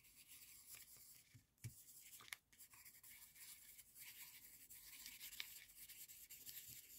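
Faint scratching of scribbling and doodling on paper, irregular strokes with a few light ticks.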